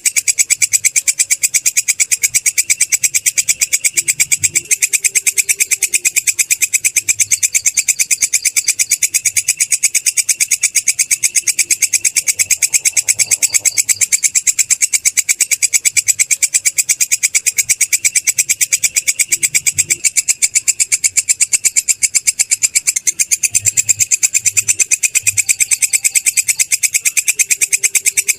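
Belalang kecek, a katydid, calling in a rapid, even, high-pitched pulsing trill that runs on without a break.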